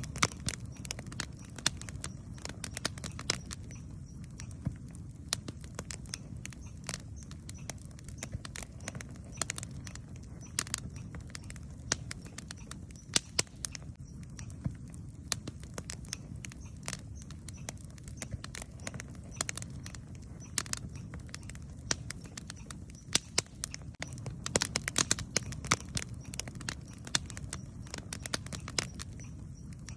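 Wood campfire crackling and popping, with many sharp snaps at irregular intervals over a steady low rumble of the flames. The snaps come thicker near the start and again for a few seconds about three-quarters of the way through.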